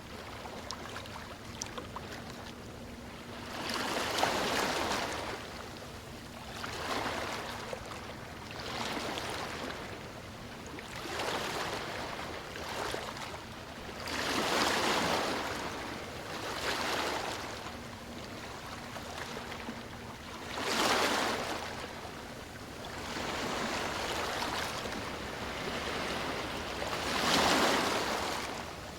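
Sea waves breaking and washing on a beach: surf noise swelling and fading every few seconds, the loudest surges about four, fifteen, twenty-one and twenty-seven seconds in.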